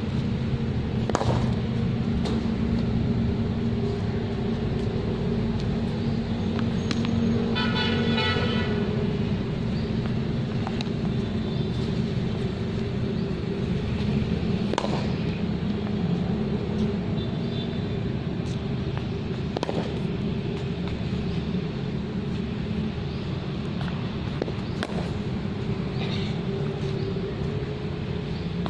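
Steady low drone of passing road traffic, with a vehicle horn sounding about eight seconds in. A few sharp knocks stand out, spaced several seconds apart.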